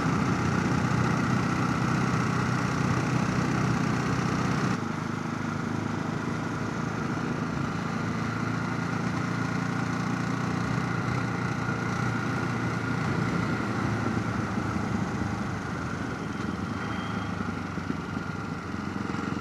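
Motorcycle engine running steadily under way, with wind and road noise, heard through a helmet chin-mounted camera. About five seconds in, the sound abruptly becomes quieter and duller, then runs on steadily.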